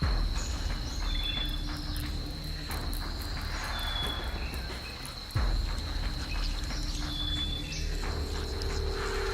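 Rainforest insect chorus: a steady high-pitched insect trill with short chirps repeating every two or three seconds, over a low rumble.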